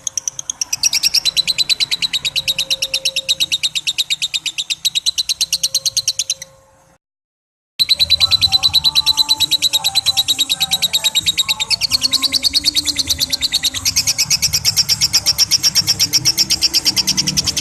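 Lovebird giving a long ngekek: a fast, unbroken run of shrill, evenly repeated chattering notes. It cuts off suddenly about six and a half seconds in, falls silent for about a second, then starts again and runs on.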